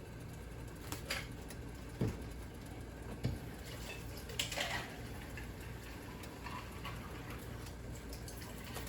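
A few light clicks and knocks, scattered about a second apart in the first half, over a steady low hum.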